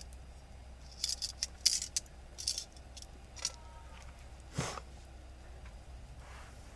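A quick run of light clicks and clatters, like small hard objects being handled, then one more click and a single thump a couple of seconds later.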